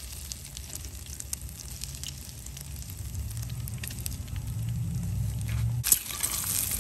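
Peeled boiled eggs frying in foaming butter in a nonstick pan: a light sizzle with scattered crackles, over a low rumble that grows from about three seconds in. A sharp knock near the end.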